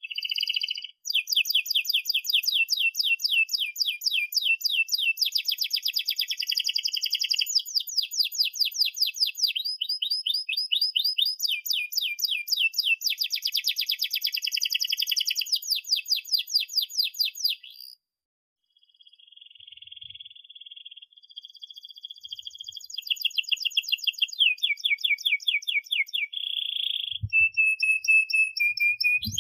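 Domestic canary singing long rolling trills of rapid repeated notes, the song chopping between phrases of different pitch. It breaks off briefly about two-thirds of the way through, starts again softer, then grows loud once more.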